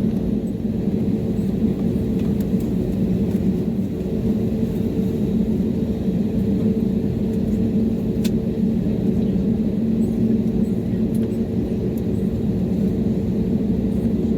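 Steady low rumble and hum inside an Airbus A320neo's cabin on the ground after landing, from the engines at idle and the air conditioning. A faint click sounds about eight seconds in.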